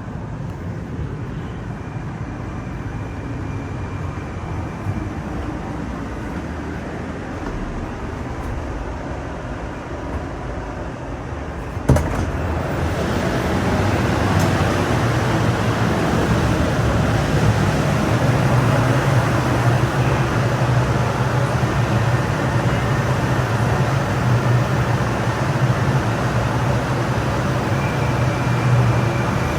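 Moscow metro train noise from a Moskva-2019 train. A sharp knock comes about twelve seconds in, and after it the running noise is louder, with a steady low hum.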